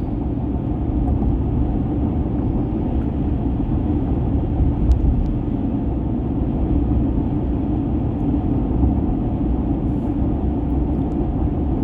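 Steady low rumble of engine and road noise from a moving vehicle, heard from inside while driving, with one faint click about five seconds in.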